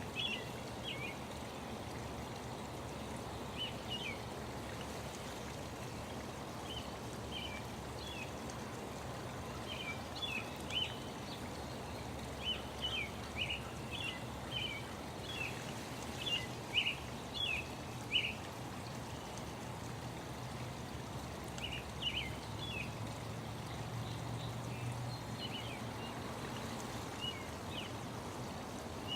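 Small birds chirping in short, high notes, most often in the middle stretch, over a steady low rushing background.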